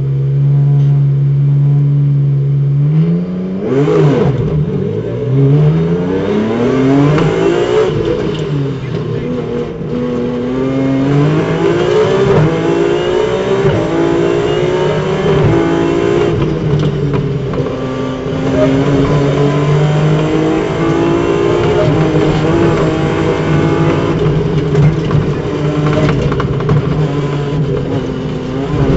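Rally car engine heard from inside the car, held at steady revs for about three seconds, then revving hard with pitch rising and dropping again and again as the car accelerates and shifts through the gears.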